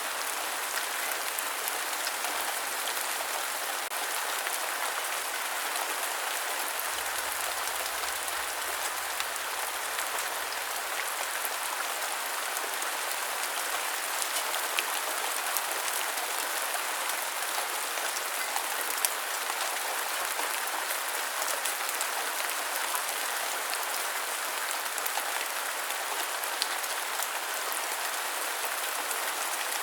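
Steady heavy rain falling, with a constant hiss and scattered sharper drop ticks, a few of them louder.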